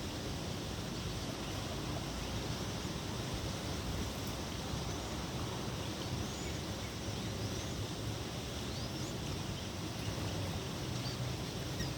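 Steady outdoor background noise, a wind-like hiss over a low rumble, with a few faint, short high bird peeps scattered through it.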